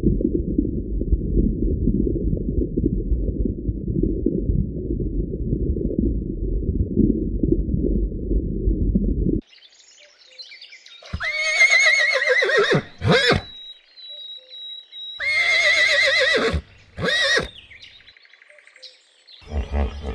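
A low, dense rumbling noise for the first nine seconds or so, then a horse whinnies twice, each a long, shaky neigh followed by a shorter call.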